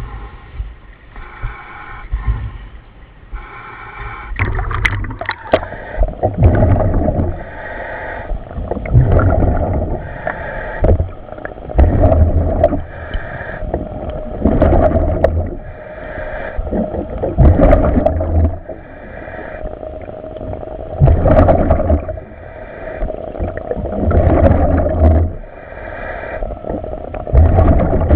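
A commercial diver breathing in a surface-supplied helmet underwater, about one breath every three seconds, each exhale releasing a rush of exhaust bubbles.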